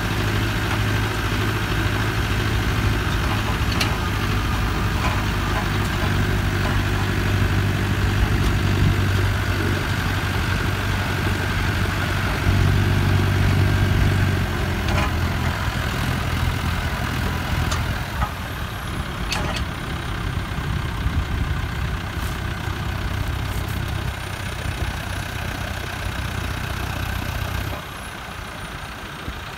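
Massey Ferguson 5430's Perkins turbo diesel running steadily. It swells briefly a little before halfway. A faint high turbo whistle falls and rises again in the second half, and the engine sound drops away near the end.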